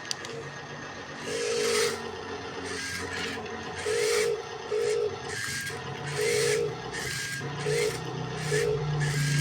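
Radio-controlled wheel loader working gravel: its small electric motor whines in short bursts, roughly once a second, over a rasping scrape of gravel.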